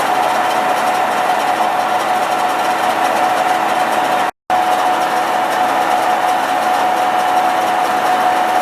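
WMW Niles DLZ 400 centre lathe running under power: a steady mechanical hum with a high, even gear whine. It cuts to a brief silence about four seconds in, then the same running sound carries on.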